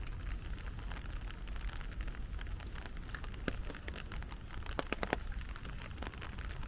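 Heavy rain falling steadily, with irregular sharp drop hits throughout and a few louder ones about five seconds in.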